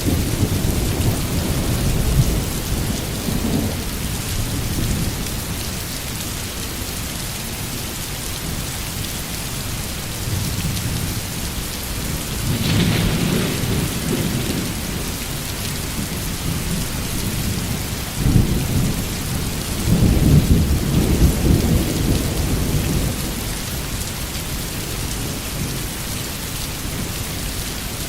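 Steady rain falling, with thunder rolling through it: low rumbles at the start, a sharper crack about halfway through, and a longer, heavier rumble about two-thirds of the way in.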